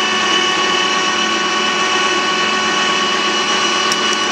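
Harrison toolroom lathe running steadily, with an even gear-train whine of several fixed tones over the machine's mechanical noise. A couple of faint ticks come near the end.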